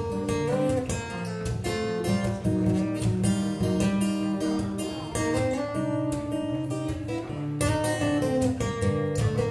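Acoustic guitars playing an instrumental break between sung verses: strummed chords under a picked melody line.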